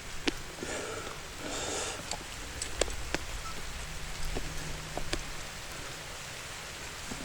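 Rain falling steadily, with scattered sharp drops hitting close by and a brief rustle about a second in.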